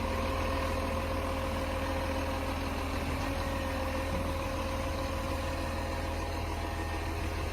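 Garbage truck's diesel engine idling steadily, a low, even hum with a faint steady whine above it.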